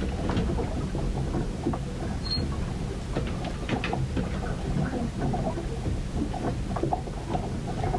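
Storm at sea heard aboard a ship: a steady low rumble of wind and water with irregular crackling and patter of rain and spray.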